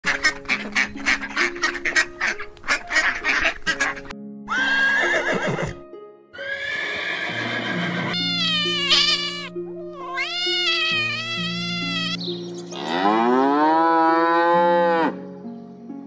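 A flock of domestic ducks quacking rapidly, then horses whinnying twice, then a cow mooing in one long call that rises in pitch, over steady background music.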